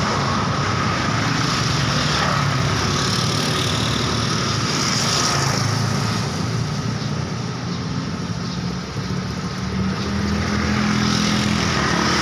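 Steady road traffic: vehicles passing with their engines running, easing off slightly about eight or nine seconds in.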